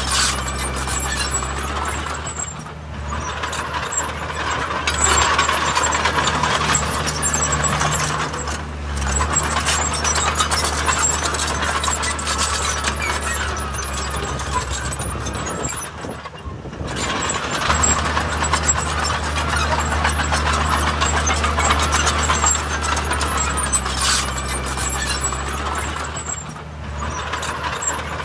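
Heavy diesel earthmoving machinery running under load with a steady low engine drone and mechanical clatter. The engine eases off briefly about four times.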